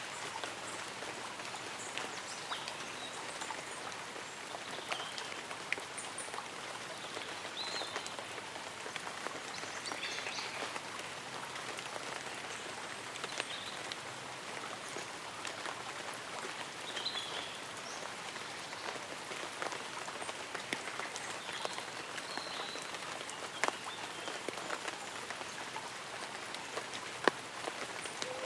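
Light rain falling on leaves and an umbrella: a steady patter with many separate drops ticking, and a few faint high chirps here and there.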